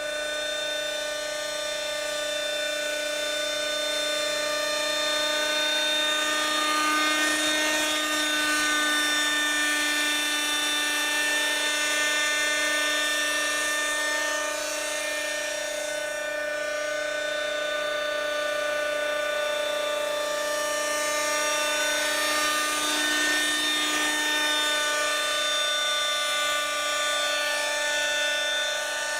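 Schlüter Magic radio-controlled model helicopter's small glow engine running steadily with a high buzzing whine, its pitch drifting slightly up and down.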